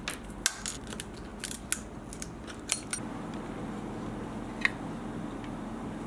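A quick run of sharp clicks and small taps from hand tools working on a phone, then a steady low hum with a click now and then.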